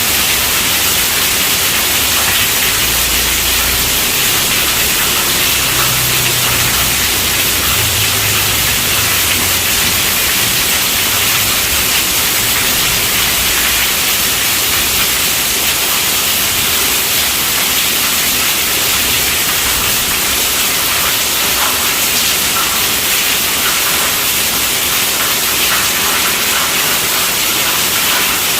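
Heavy rain drumming steadily on a tent roof, a dense even hiss. A faint low rumble runs underneath for several seconds in the first half.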